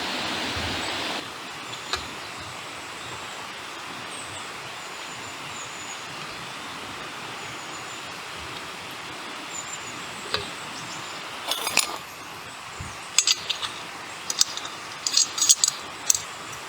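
Light clinks and rattles of small hard objects, like metal or glass camp gear being handled, in clusters through the second half. Before them a steady rushing noise cuts off about a second in, and faint high chirps come and go.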